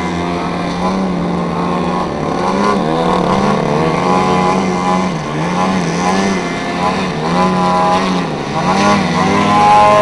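Engines of two large radio-controlled aerobatic planes flying 3D manoeuvres together, their pitch continually rising and falling as the throttles are worked, with two engine notes overlapping.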